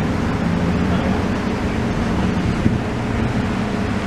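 Car engine idling, a steady low rumble with wind noise on the microphone.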